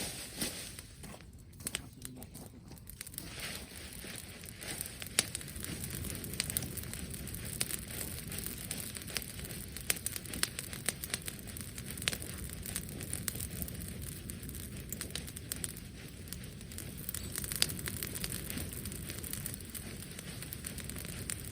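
Wood bonfire crackling, with frequent sharp pops over a low steady rumble of the flames.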